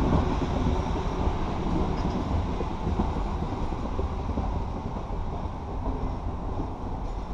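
Low, steady rumble of a train out of sight, slowly fading.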